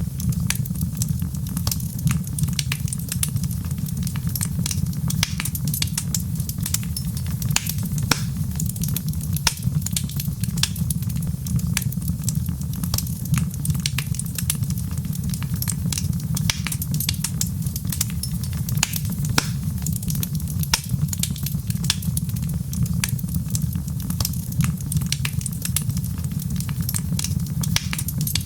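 Wood fire crackling steadily: a dense stream of small sharp pops and snaps over a low, even rumble.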